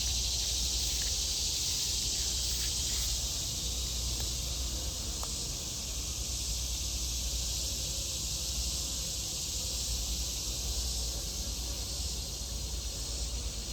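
Steady, high-pitched chorus of summer insects, unbroken throughout, with a low hum underneath.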